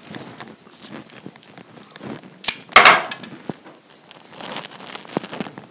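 Handling noises from flower arranging at a worktable: light rustling, with a short clatter of sharp clicks from a hard object about halfway through.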